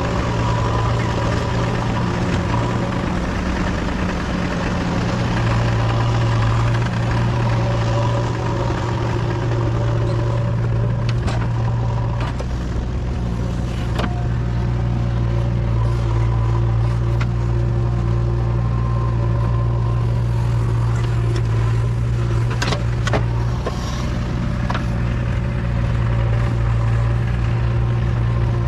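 Diesel engine of a JCB 3DX backhoe loader running steadily, its note rising and easing a little as the machine works. A few sharp knocks come through in the middle and later part.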